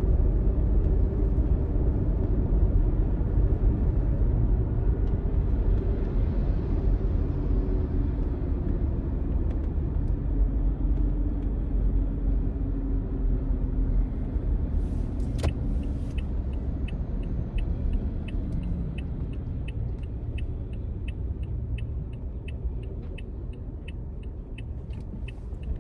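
Steady low rumble of a car on the move, heard from inside the cabin, easing slightly toward the end. A sharp click comes about halfway through, followed by a regular ticking of about two a second.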